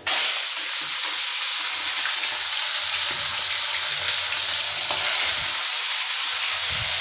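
Chicken pieces dropped into hot mustard oil in a steel kadhai: a sudden sizzle that carries on as steady frying.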